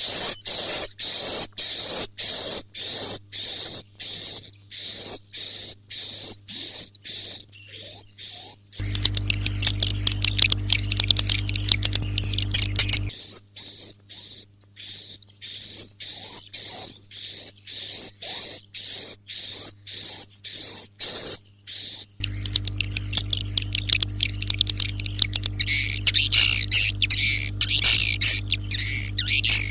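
Edible-nest swiftlet roosting calls: a fast, repeated series of high, sharp chirps, about two a second at first, then a denser twittering chatter. A low steady hum comes in about nine seconds in, drops out near thirteen seconds and returns about twenty-two seconds in.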